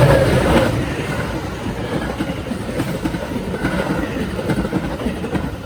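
A train passing on the tracks, its wheels rattling over the rails as the cars go by. The sound fades near the end.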